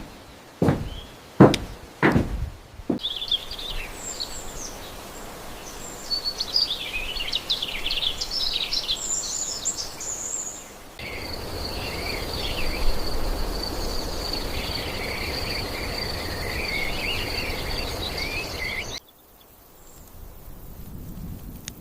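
Birds singing and chirping over outdoor background noise, opened by several sharp knocks. Midway a steady high insect drone with a low rumble joins the birdsong, then cuts off suddenly near the end.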